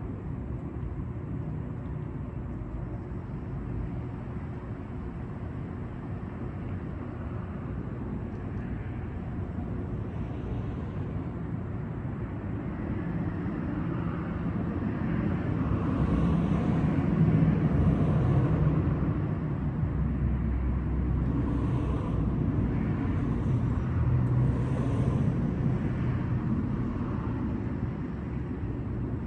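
Steady low rumble of motor traffic, swelling to its loudest a little past the middle as a vehicle passes, then easing off.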